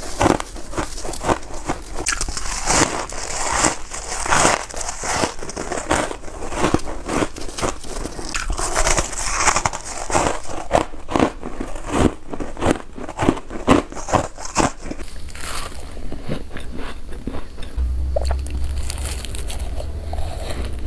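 Freezer frost being bitten and chewed, with a rapid run of crisp crunches. Near the end the crunching thins out and a low hum comes in.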